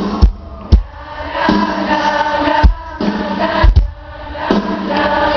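Live rock band playing: held sung notes over a few heavy, irregularly spaced drum hits.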